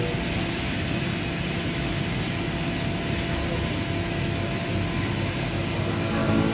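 Steady machine hum under an even rushing noise, like factory machinery or ventilation running.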